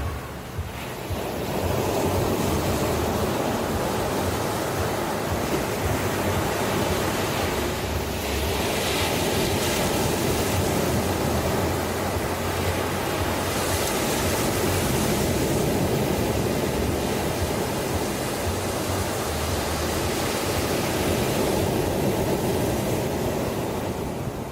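Ocean surf washing onto a shore: a steady rushing that rises about a second in, swells twice, and eases off near the end.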